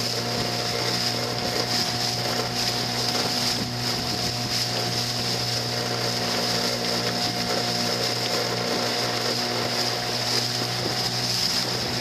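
Motorboat engine running at a steady speed: an even drone with a high whine above it that does not change.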